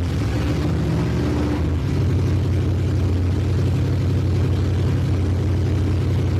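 Carbureted pickup truck engine running steadily at idle, just restarted after its plug wires and distributor were moved to set the ignition timing.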